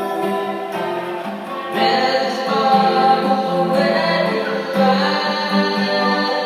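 A song being sung with long held notes that move to a new pitch every second or two, with musical accompaniment.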